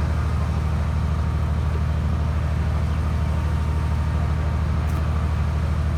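Engine of a hydraulic static pile driving machine running at a steady speed, a low even drone.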